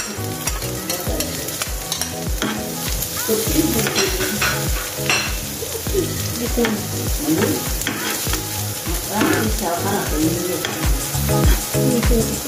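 Chopped red onion and garlic sizzling in hot oil in a frying pan, tipped in from a plate at the start and then stirred with a slotted spatula that scrapes and taps the pan, over background music with a steady beat.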